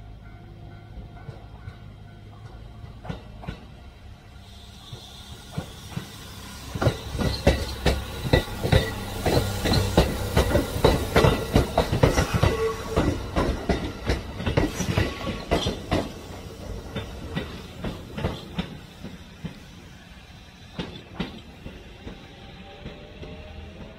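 Train wheels clicking over rail joints: the clickety-clack builds about six seconds in, is loudest a few seconds later, then thins out and fades, over a low steady rumble.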